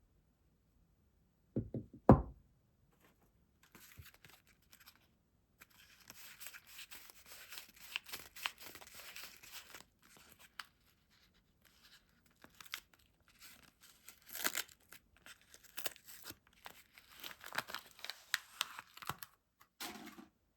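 Soap wrapper being torn open and crinkled, a long rustling, crackling tear with small clicks. A couple of low knocks come about two seconds in, and a soft thud near the end.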